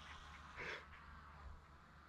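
A single short, faint bird-like call about two-thirds of a second in.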